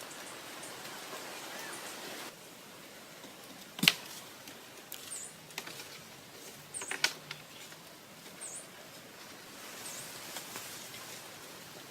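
A small bird chirping outdoors: short high chirps every second or two over a steady hiss, with a sharp knock about four seconds in and a few clicks around seven seconds.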